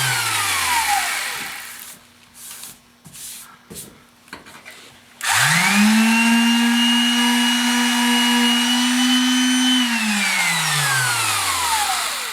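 A high-speed electric motor winds down at the start. About five seconds in it spins up, runs steadily for about four seconds, then winds down again near the end.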